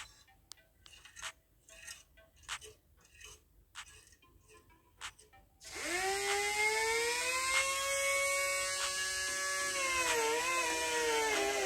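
Light clicks and taps of small parts being handled. About six seconds in, a small electric power tool's motor spins up with a quick rise in pitch and runs at a steady high whine. Near the end its pitch dips and wavers as it is pressed onto the work.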